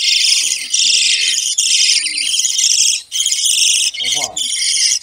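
Many caged small birds and parakeets chattering and chirping together in a dense, continuous high twittering, with a brief lower sound about four seconds in.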